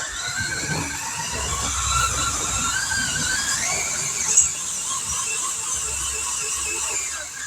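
RC pulling truck's motor and drivetrain whining under load as it pulls the sled, the high pitch rising and falling with the throttle, then cutting off abruptly at the end.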